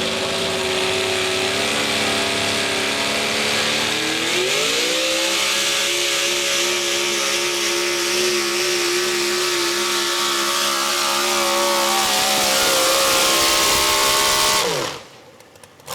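Modified four-wheel-drive pulling truck's engine running flat out as it pulls the sled. Its pitch steps up about four seconds in and holds high, then falls away and cuts off near the end of the run.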